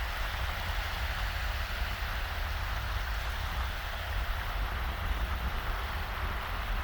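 Small, shallow waves washing steadily onto a sandy beach, with a low rumble of wind on the microphone underneath.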